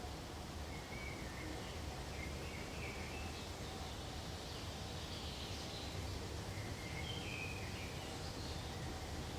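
Small birds chirping in short high phrases, four or so times, over a steady low rumble of background noise.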